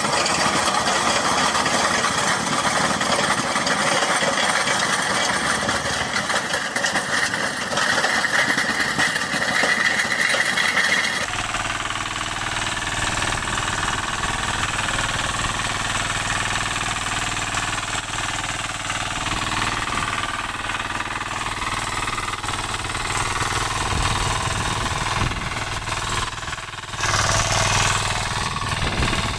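Engine running hard with a rapid knocking clatter, as from a single-cylinder diesel walking tractor. About eleven seconds in the sound cuts to a deeper, steadier engine note.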